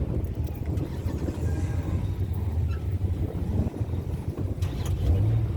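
Car engine noise: a steady low rumble.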